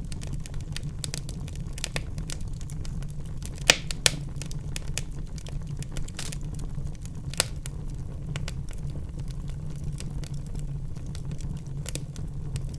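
Wood fire in a fireplace crackling, with a steady low rumble of the flames and frequent sharp pops, three louder snaps a little under 4 s in, just after 4 s and about 7.5 s in.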